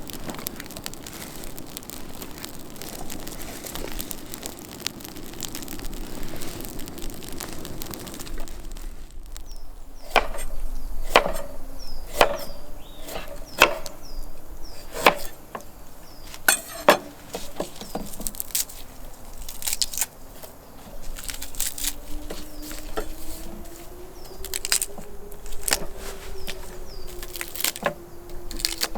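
Campfire crackling, then after about nine seconds a series of sharp knocks of a blade chopping into wood, roughly a second apart, followed by lighter scattered taps.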